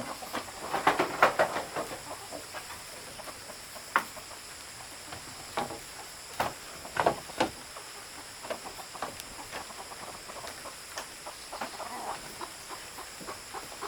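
Chickens clucking in short, scattered calls, thickest in the first couple of seconds and again around the middle, over a steady high hiss.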